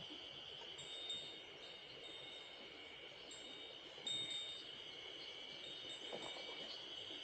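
Insects shrilling in a steady, high, even drone, with short high whistled notes over it about a second in and loudest about four seconds in, above the low rush of a mountain stream.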